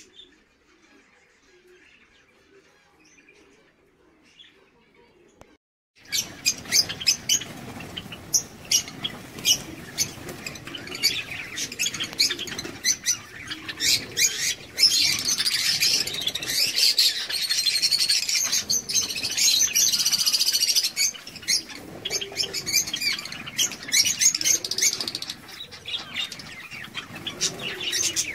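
Java sparrows chirping and fluttering, with many sharp clicks among the calls. They are faint at first, then loud and busy from about six seconds in, with a few low rising-and-falling calls near the end.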